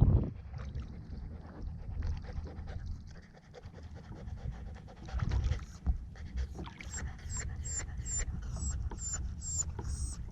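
Dog panting rhythmically over a low rumble, with a short high chirp repeating about twice a second in the second half.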